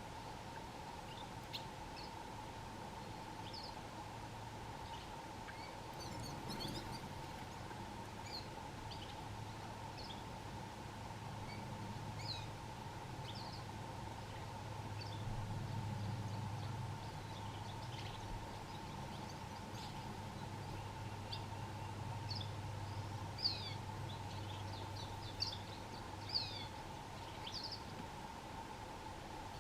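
Wild Atlantic canaries giving short, scattered chirping calls, with a few louder chirps near the end, over a steady faint hum and low rumble.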